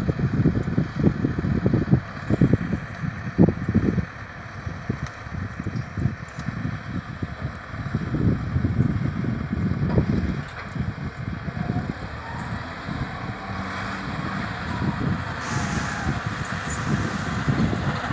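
John Deere 5310 tractor's diesel engine running, with wind buffeting the microphone in uneven gusts. A hiss rises for a couple of seconds near the end.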